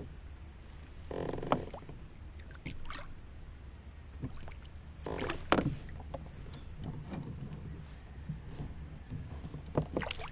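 Handling noise on a fishing kayak on the water: scattered knocks, clicks and brief rustling or splashing sounds over a steady low hum, with the louder bursts about a second in and about five seconds in.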